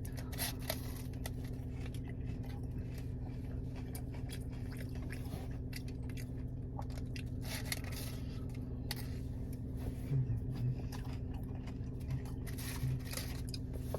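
Close-up chewing and crunching of a McDonald's hash brown, with many small wet mouth clicks, over a steady low hum.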